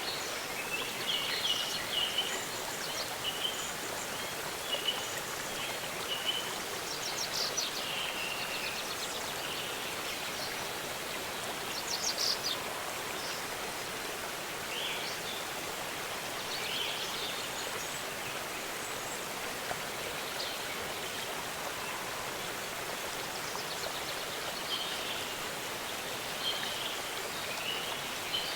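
Waterfall's steady rush of water, with birds calling over it in short chirps scattered throughout and quick trills about seven and twelve seconds in.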